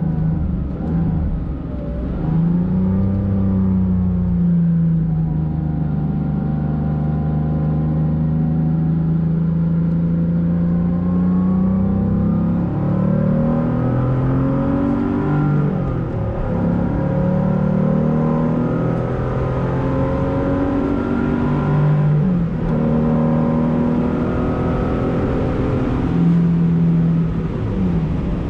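The air-cooled flat-six of a Porsche 911 Carrera 3.2, heard from inside the cabin. It runs at a steady pitch at first, then the revs rise and fall repeatedly through the second half as the throttle and gears change.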